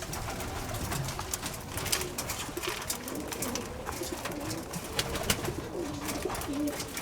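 Several domestic pigeons cooing on and off, with many sharp little clicks throughout from beaks pecking at seed feed.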